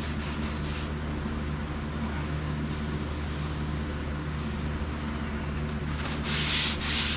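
Sandpaper rubbing back and forth by hand over a painted vehicle body panel: light, faint strokes at first, then two loud, hissy strokes about six seconds in. A steady low hum runs underneath.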